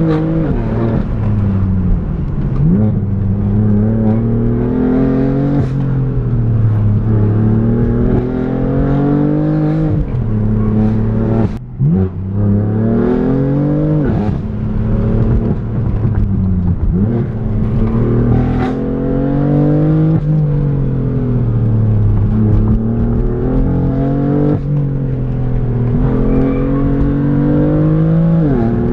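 BMW M3's twin-turbo straight-six engine heard from inside the cabin under hard driving, its pitch climbing under acceleration and dropping sharply at each upshift, several times, and sagging as it slows for bends.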